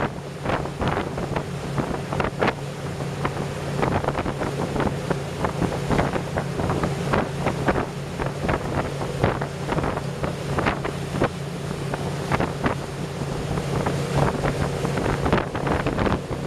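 A 43-foot motorboat's engine running with a steady hum, with many short, irregular gusts of wind buffeting the microphone.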